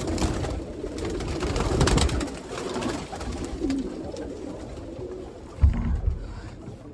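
Domestic pigeons cooing in a loft, with rustling and clicking over the first couple of seconds and a low thump near the end.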